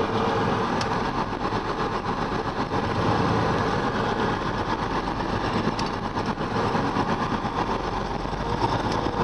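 Vehicle engine running steadily with road noise, heard from inside a moving vehicle on a rough, pothole-strewn dirt road.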